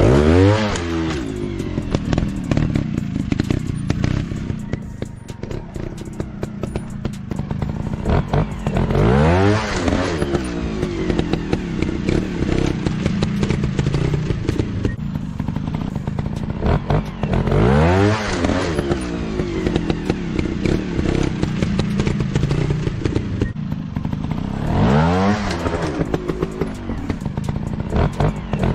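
Motorcycle engine revving and accelerating in four rising sweeps of pitch, roughly every eight seconds, running at a lower steady note in between, with some clattering.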